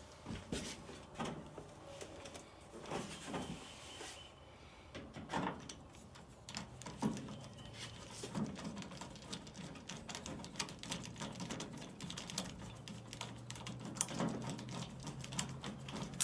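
Scattered light clicks, taps and knocks of hand-work on a dryer's sheet-metal cabinet and its screws during reassembly, with a low steady hum joining in near the end.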